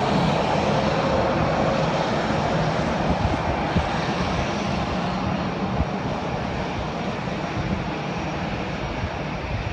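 Aircraft engines running steadily, slowly getting a little quieter.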